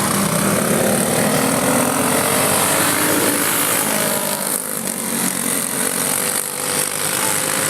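A field of racing go-karts with small single-cylinder four-stroke Briggs & Stratton Animal engines running hard. Several engine notes rise and fall as the karts accelerate and lift around the track.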